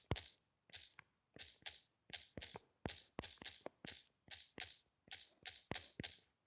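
Mechanical fireplace making a fire-crackle effect: a quick, fairly regular run of sharp clicks, each with a short hiss, several a second.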